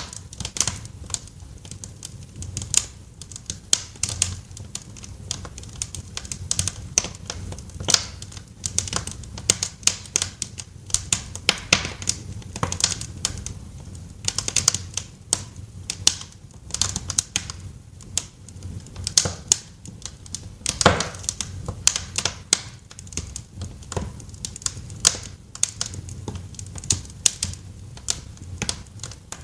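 Wood fire crackling in a fireplace: irregular sharp pops and snaps, several a second, over a low steady rumble, with one louder pop about two-thirds of the way through.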